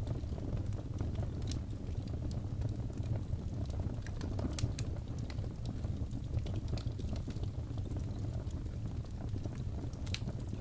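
Wood fire burning in a fireplace: a steady low rumble of the flames with irregular sharp crackles and pops from the burning wood, one louder pop near the end.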